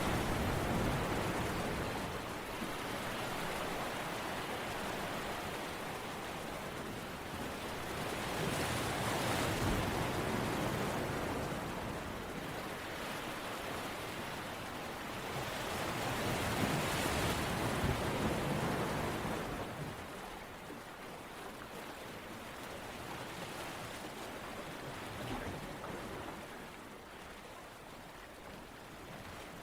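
Ocean waves washing onto a shore, the surf swelling and fading in slow surges about eight seconds apart, settling lower in the last third.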